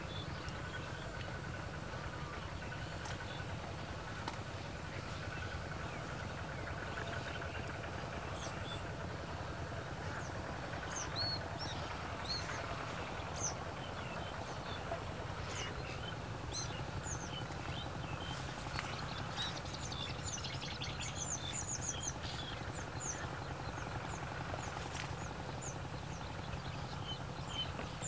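Many short, high-pitched chirps of small birds, sparse at first and growing busier from about a third of the way in, over a steady low rumble.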